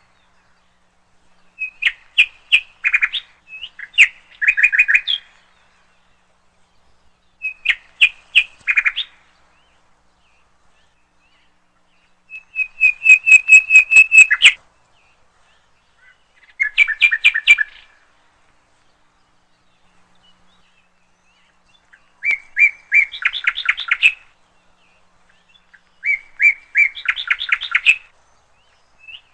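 A bird chirping in short bursts of rapid high chirps, about seven phrases with silences of one to several seconds between them. The loudest, about halfway through, is a quick even trill.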